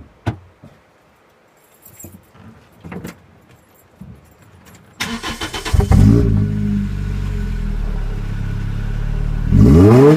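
A few light clicks, then a Toyota Celica ZZT231's 1.8-litre four-cylinder starts through a TRD High Response Ver.S sport muffler about five seconds in and settles into a steady idle. Near the end it is blipped up towards about 4000 rpm.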